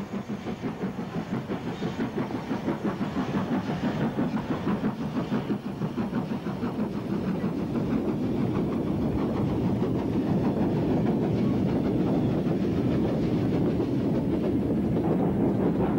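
Steam-hauled freight train climbing past, with a long string of open wagons rattling and clattering over the rail joints in a rapid, even rhythm that grows louder.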